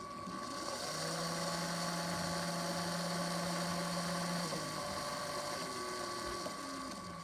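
LEGO Power Functions train motor spinning a brick-built helicopter rotor: a small electric motor whine that rises as it spins up and then holds steady. The pitch shifts about four and a half seconds in and again near the end.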